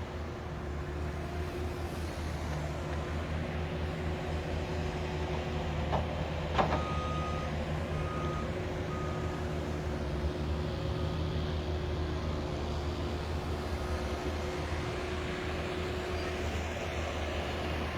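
Heavy construction machinery running nearby with a steady low rumble and hum. A couple of sharp knocks come about six seconds in, followed by three short beeps of a reversing alarm.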